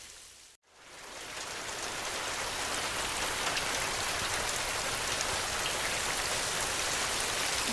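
Steady rain falling, an even hiss of drops. It fades out to a brief silence about half a second in, then fades back in over the next two seconds and holds steady.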